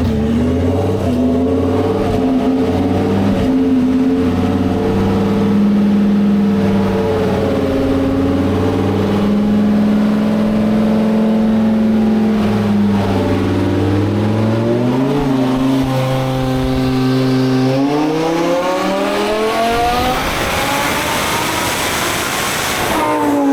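Twin-turbo Lamborghini Huracan's V10 engine under load on a chassis dyno. It runs at a roughly steady speed for the first half, then the revs climb steadily through a pull and drop off sharply near the end as the throttle closes.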